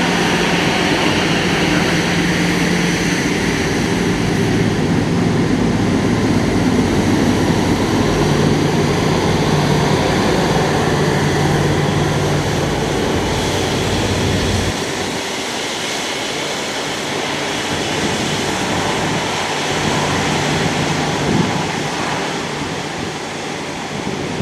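Jet airliner engine noise, a steady loud rush with a low hum under it that eases off about fifteen seconds in, as the aircraft moves away.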